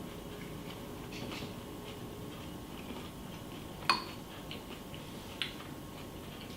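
A spoon clinking against a cereal bowl: small scrapes and clicks, one sharp ringing clink about four seconds in and a softer one about a second and a half later.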